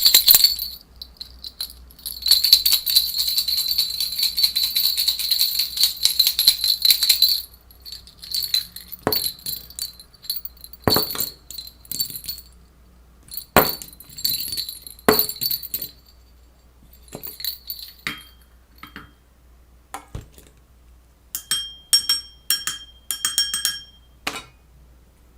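Jingling and clinking, like a small bell or keys being shaken. A dense jingle lasts several seconds, followed by scattered sharp clicks and taps, then a handful of short ringing strikes near the end.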